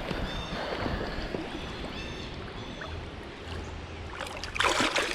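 Water sloshing and lapping at the river's edge, with a louder splash near the end.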